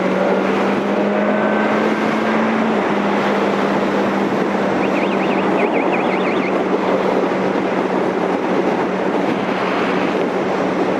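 Yamaha R1 sportbike's inline-four engine running at steady cruising revs under a heavy rush of wind noise; the engine note climbs slightly over the first few seconds, then holds level.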